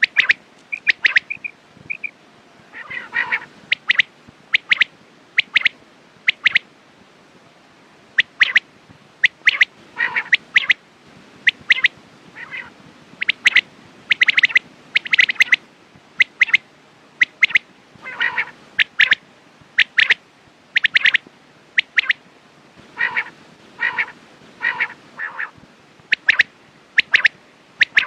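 Quail calling: short, sharp whistled notes repeated in quick clusters of two or three, with lower, rougher notes mixed in now and then.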